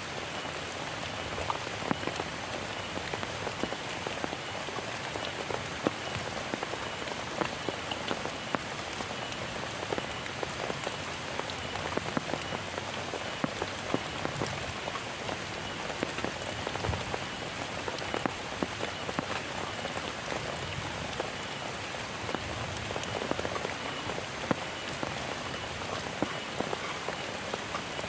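Heavy rain falling steadily, an even rush with frequent sharp ticks of single drops striking a surface close by.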